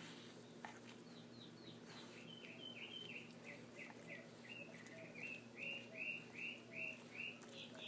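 Young puppy squeaking in its sleep while dreaming: a run of short, high, falling squeaks, about three a second, getting louder in the second half.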